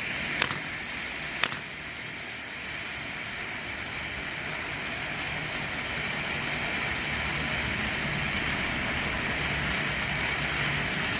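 A 500-gram Mania Coin firework fountain spraying, a steady rushing hiss that slowly grows louder. Two sharp cracks come in the first second and a half.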